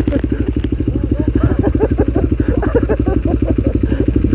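Trail motorcycle engine running steadily at a low speed, with a fast, even exhaust beat.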